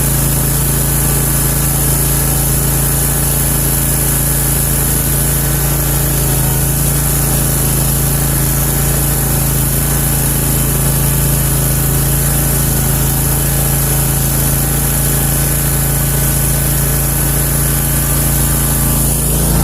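Country Clipper zero-turn mower's engine running at a steady speed, a constant drone with a hiss above it.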